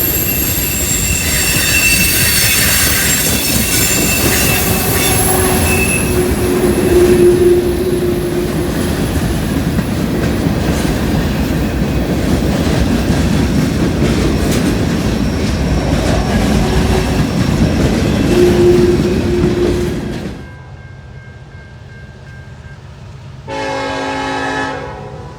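Freight train rolling past close by, its steel wheels squealing against the rail with clickety-clack over the joints, cutting off abruptly about twenty seconds in. After a quieter stretch, a single horn blast of about a second and a half sounds near the end.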